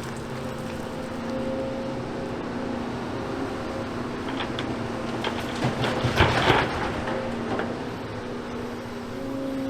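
Hydraulic excavator's diesel engine running with a steady hum, with a loud clatter of demolition rubble, the loudest moment, about six seconds in.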